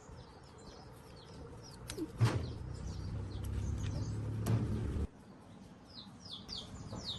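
Small birds chirping in short high notes throughout, busiest near the end. From about two seconds in, a louder low steady hum starts with a click, with another click partway through, and cuts off sharply about five seconds in.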